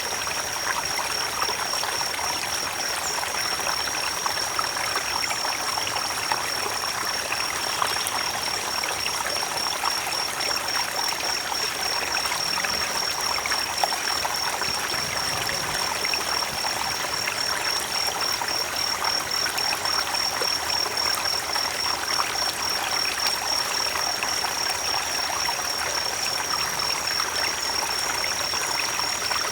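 Creek water running in a steady rush and trickle. A steady, high, slightly wavering tone sits above it throughout.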